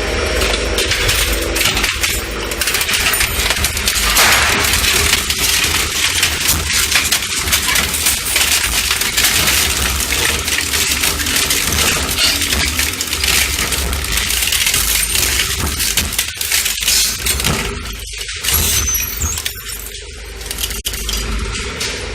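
Industrial shredder crushing metal: a dense, continuous clatter and clinking of metal pieces over a steady low machine hum, thinning out in a few short gaps near the end.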